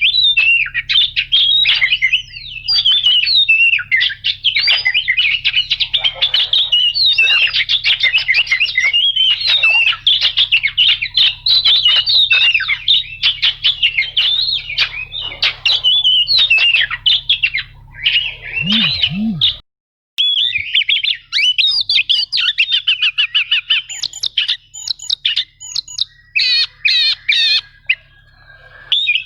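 Oriental magpie-robin (kacer) singing a rapid, varied chattering song with squawky notes and rolling runs, over a low steady hum. About two-thirds through the sound cuts out for a moment, then the song resumes without the hum.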